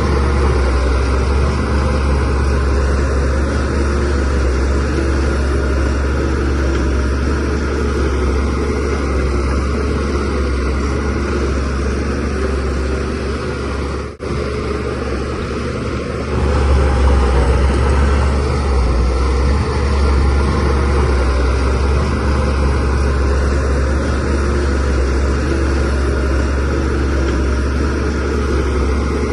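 DH17C3PRO bulldozer's diesel engine running steadily with a deep, low rumble. It cuts out for an instant about halfway through, then runs somewhat louder.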